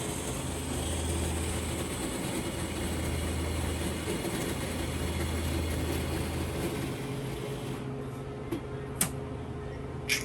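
Self-serve coffee machine brewing and pouring a cup: a steady mechanical hum from the machine that stops about eight seconds in, followed by a few light clicks.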